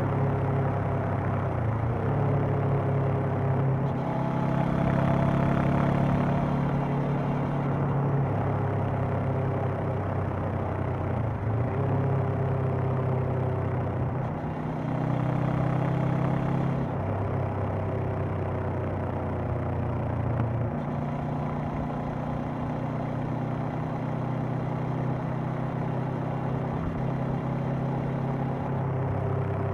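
Honda CB500X's parallel-twin engine and exhaust running steadily while riding, its pitch shifting up and down several times.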